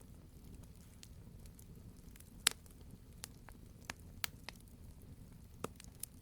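Wood fire crackling: a low steady rumble with irregular sharp pops and snaps, the loudest about two and a half seconds in.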